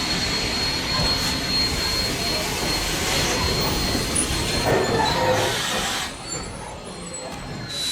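Steam train and its carriages rolling along the rails, a steady rumbling noise with a thin high tone over it; it drops away about six seconds in and rises again near the end.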